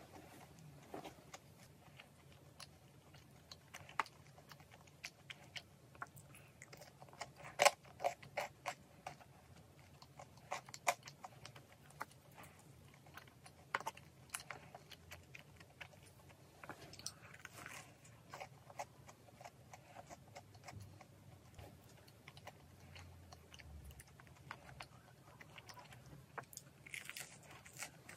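Close-miked chewing and biting of fish-shaped pastries (ingeoppang), with many short, sharp crunchy clicks scattered throughout. The loudest bite comes a little over a quarter of the way in.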